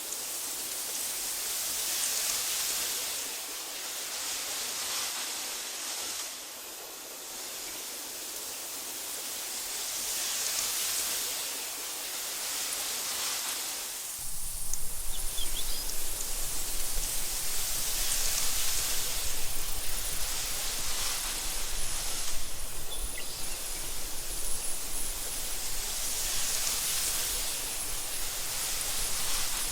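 Wind blowing through tall meadow grass, a steady rushing that swells and fades in gusts every few seconds. About halfway through a low rumble joins it and the level turns more uneven.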